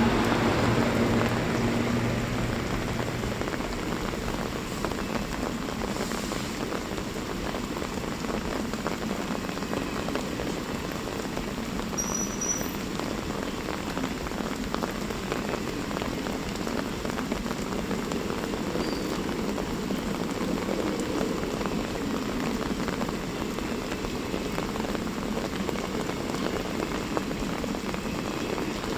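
Steady monsoon rain falling, with a dense patter of drops on surfaces. A low hum dies away in the first few seconds.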